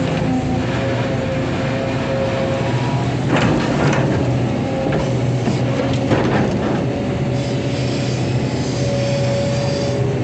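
Excavator's diesel engine running steadily under working load, with a few short scraping clunks in the middle as the machine works the ground.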